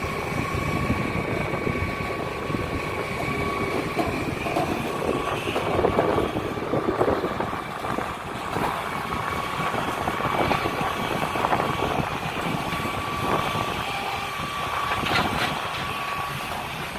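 Large mining haul truck running, a heavy continuous drone with a steady high whine and irregular knocks and rattles over it.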